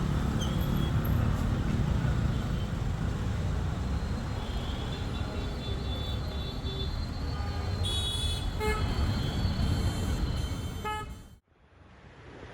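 Street traffic: vehicle engines running with steady road rumble, and short car horn toots in the latter part. The sound cuts off suddenly near the end.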